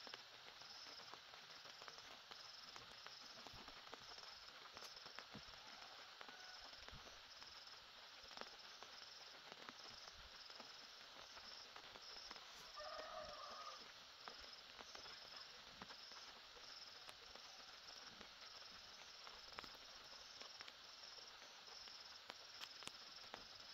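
Faint outdoor ambience: a steady hiss of light rain, with an insect trilling in short, evenly spaced pulses throughout. A brief call sounds about halfway through.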